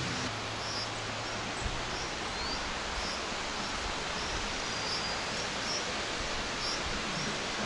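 Steady rushing of a large waterfall, with short high chirps of small birds scattered through it.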